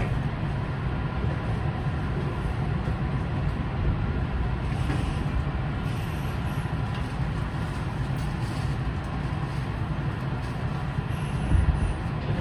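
Kintetsu 9020 series electric train braking to a stop, heard from inside the cab as a steady low rumble and running noise, with a low thump near the end as it halts.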